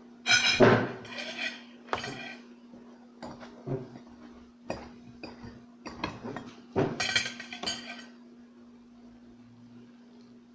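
Cutlery clinking and scraping against plates and serving dishes, several ringing clinks in the first two seconds and more scattered through about eight seconds, then quieter. A steady low hum runs underneath.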